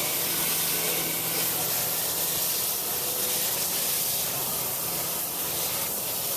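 Garden hose spray nozzle spraying water onto a car's engine bay, a steady even hiss of water.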